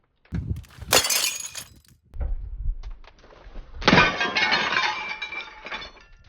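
Hamilton Beach microwave oven being smashed: heavy blows with glass breaking. The loudest crash comes about four seconds in, and its pieces clatter for about two seconds.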